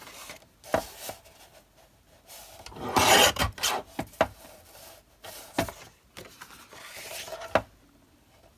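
Card stock and paper being handled on a work surface: sliding rubs, loudest a few seconds in, and scattered light knocks.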